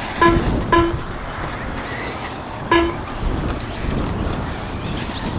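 Three short electronic beeps from the RC track's lap-timing system as buggies cross the line: two in quick succession just after the start, one about three seconds in, over steady track noise.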